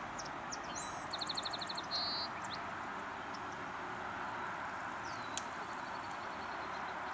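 A small songbird sings a quick trill of about ten repeated high notes a second, ending in a short buzz, about a second in. Another thin whistled note slides down and is held near the end, all over a steady outdoor background hiss.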